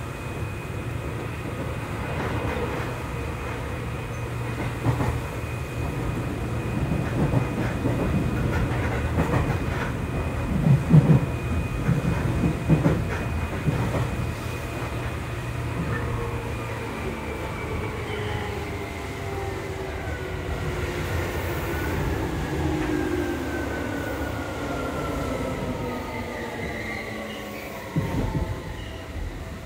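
Seibu 2000 series electric commuter train heard from inside a motor car: steady running noise with clacks over rail joints. From about halfway, its motor tones fall steadily in pitch as the train slows to a stop at a station.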